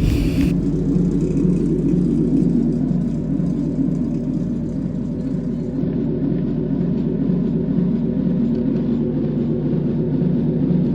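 1/8-scale ride-on train rolling on its track: a steady low rumble of wheels on rail with a faint hum.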